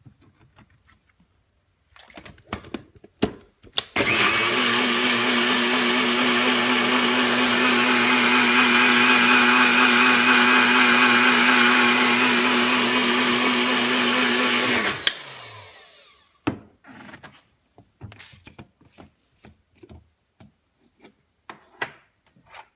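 Electric blender running steadily for about eleven seconds, then switched off and winding down, blending bulletproof coffee. Scattered clicks and knocks of handling come before and after.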